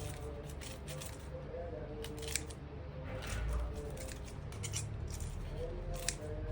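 Kitchen scissors snipping through chicken: a series of sharp, irregular snips roughly a second apart.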